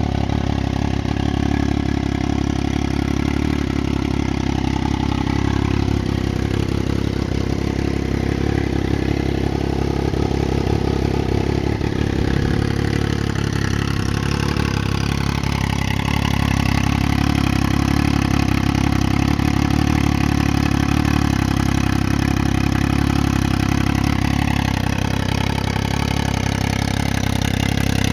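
Triumph Daytona 675's inline three-cylinder engine running through a custom exhaust at a steady, low speed, its pitch drifting up and down slightly a few times and a little louder in the second half.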